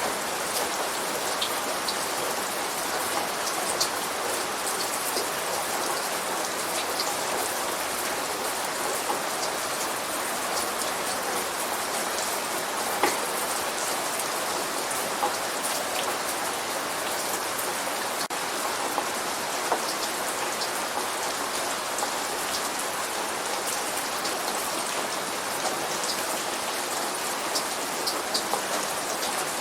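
Steady light rain falling, with many distinct drops ticking on a surface.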